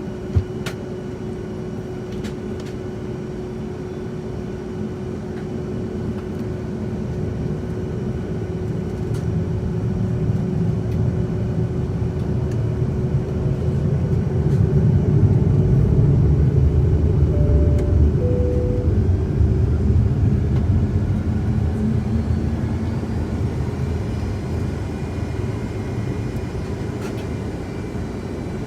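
Jet engine and rumbling noise heard from inside a Boeing 757-200's cabin, swelling over about ten seconds, holding loud, then easing off. A sharp click sounds just after the start.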